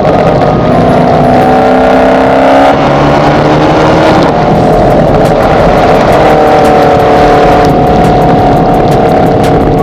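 2022 Camaro SS 1LE's 6.2-litre LT1 V8 under load, loud exhaust. The engine note climbs, falls away about three seconds in and again a little after four seconds, then holds and slowly climbs again.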